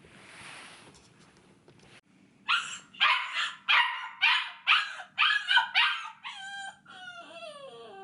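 Miniature American Shepherd puppy, about eight weeks old, crying after waking. It gives a run of about eight short high yips, roughly two a second, then a longer wavering whine that falls in pitch.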